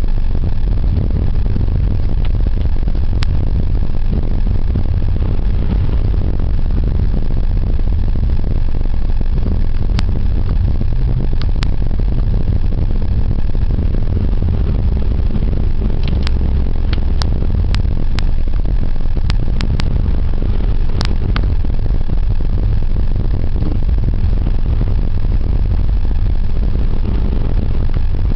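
A car driving on a snow-covered road: a steady low engine and road rumble, with scattered sharp clicks.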